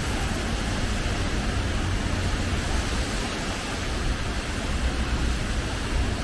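Steady hiss of rain with a heavy low rumble underneath.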